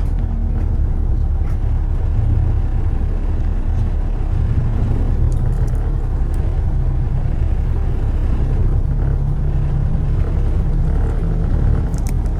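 Steady low rumble of London road traffic and car road noise, with a few faint clicks near the end.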